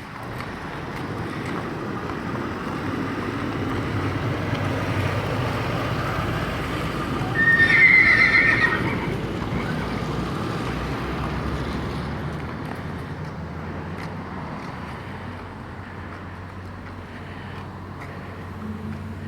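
Truck passing: a rumble that builds over several seconds and then slowly fades away. At its loudest, about eight seconds in, there is a brief high, wavering squeal.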